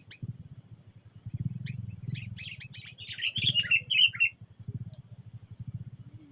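Songbird chirping: a few single chirps, then about two seconds in a quick, bubbly run of chirps lasting about two seconds.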